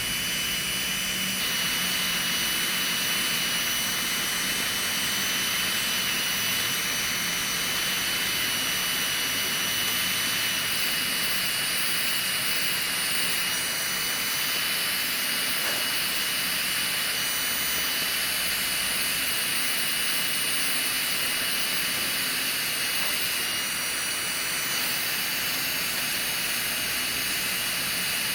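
Electric podiatry drill running steadily, a high thin whine over a constant hiss, as it grinds down hard skin around a corn on the sole of the foot.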